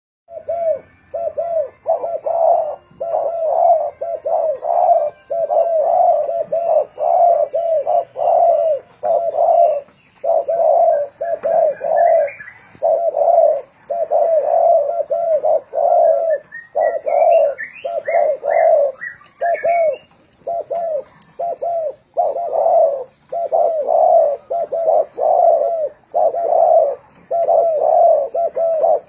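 Spotted doves cooing in quick repeated phrases, several birds calling against each other so the coos follow almost without a break. A smaller bird adds runs of rising, higher chirps a third of the way in and again just past the middle.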